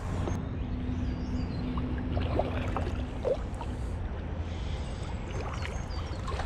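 Water moving around a kayak on a river: a steady low rumble with a few small clicks and knocks scattered through it.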